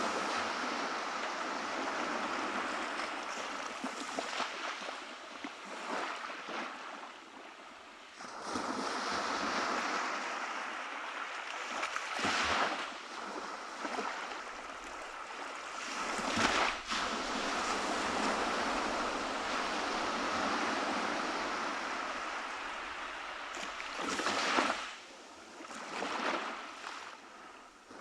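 Ocean surf washing onto a beach: a continuous rush of water with waves breaking in louder surges every few seconds, the strongest about halfway through and again near the end.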